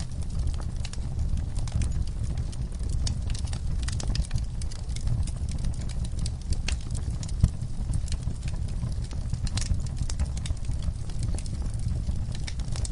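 Wood fire burning in an outdoor firepit, crackling with many small, irregular pops over a steady low rumble.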